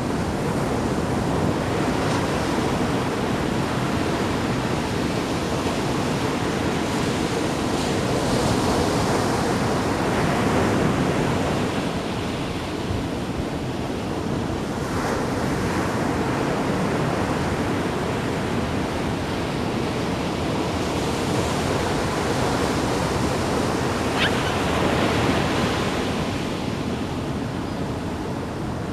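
Sea waves splashing and washing in, a continuous surf that swells and eases every few seconds.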